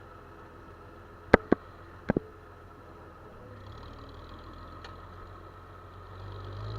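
Farm machinery engine running steadily at low speed. About a second in come four sharp clicks in two quick pairs, and the engine sound grows louder near the end.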